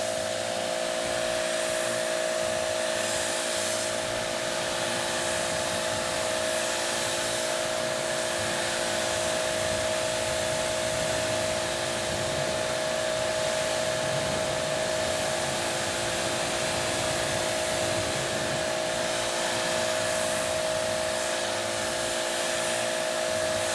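Husqvarna 2000 PSI electric pressure washer running under load while spraying a rinse: a steady motor-and-pump hum under the even hiss of the high-pressure water jet.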